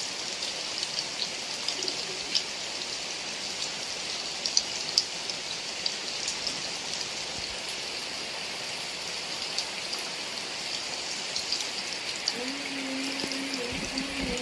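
Heavy rain falling steadily: a dense hiss dotted with sharp drop ticks. About twelve seconds in, a low steady hum with a higher overtone joins and steps up and down in pitch.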